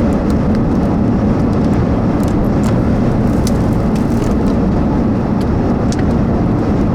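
Steady in-cabin rumble of a car driving in very strong wind: road and wind noise together, with light scattered ticks.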